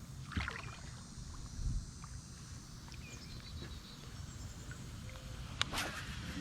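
Kayak sitting on the water, with a low rumble of wind on the microphone and two short knocks against the boat, one about half a second in and a louder one near the end.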